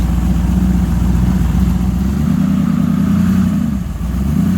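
A vehicle engine running close by. The revs pick up about two seconds in, drop briefly near four seconds, then steady again.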